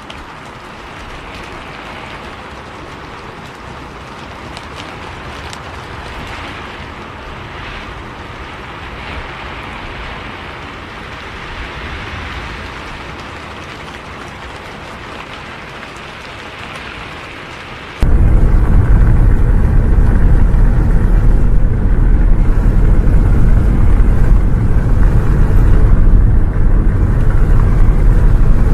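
Steady rain hiss with no engine underneath. About two-thirds of the way through it cuts abruptly to the louder low rumble of a bus's engine and road noise, with the rain going on over it.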